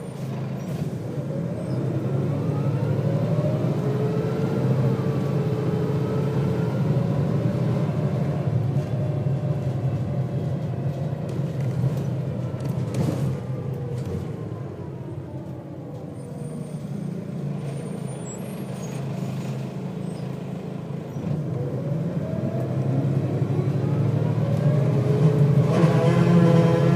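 Volvo B6BLE bus's diesel engine and ZF automatic gearbox under way, the pitch climbing as it accelerates through the gears, easing off and dropping around the middle, then climbing again near the end. A short click sounds about halfway through.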